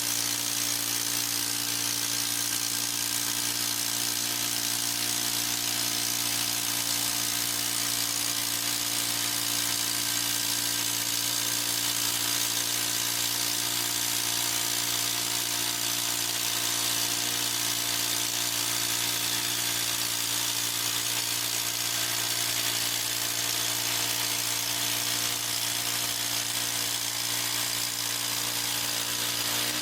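Harbor Freight portable band sawmill's gasoline engine running steadily at high speed, with an even, unchanging drone.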